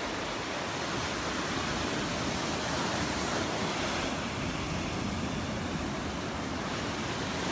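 Gulf of Mexico surf washing onto the beach, a steady rush that swells slightly in the middle.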